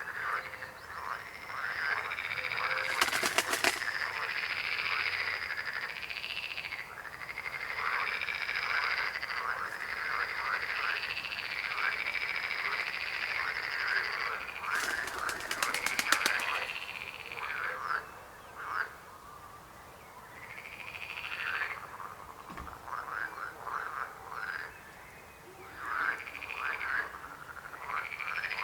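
A chorus of frogs croaking, many calls overlapping, thinning out to separate calls in the second half. Two brief, rapid rattling bursts stand out, about three seconds in and about fifteen seconds in.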